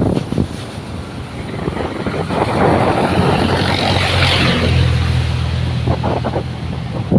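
Wind rushing over the microphone, with a low engine hum that swells in the middle and then fades.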